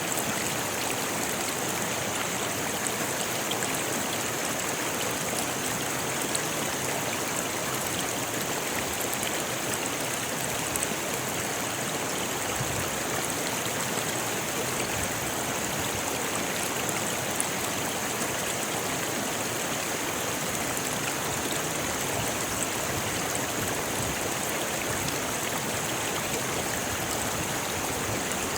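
A rocky river flowing steadily over stones: continuous rushing and splashing water with a few faint splashes standing out.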